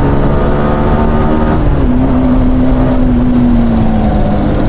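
Yamaha R15 V4's single-cylinder engine running steadily while riding at highway speed, its pitch easing slightly down about halfway through.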